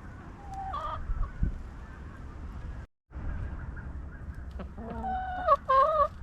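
Backyard chickens clucking and calling: a short call about a second in, then louder, drawn-out calls near the end.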